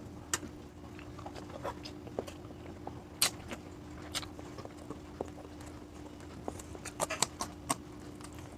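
Eating sounds: scattered sharp clicks and taps of utensils and chewing, a few louder ones about three seconds in and again around seven seconds in, over a steady low hum.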